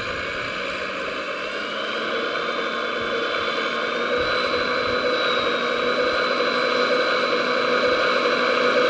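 Radio-controlled model vehicle running: a steady mechanical hum with a motor whine that climbs in pitch over the first four seconds, then holds steady.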